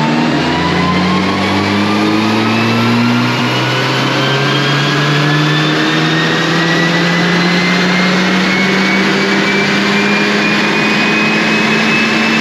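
Mk8 Volkswagen Golf's turbocharged 2.0-litre four-cylinder at full throttle on a chassis dyno, revs climbing slowly and steadily through a long pull in one gear, with a high whine rising alongside.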